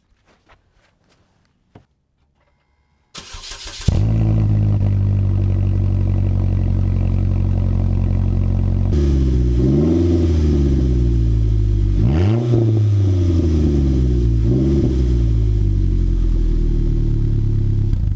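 A Chevy Equinox's engine cranks and catches about three seconds in, then runs steadily at idle. In the second half its pitch rises and falls briefly three times.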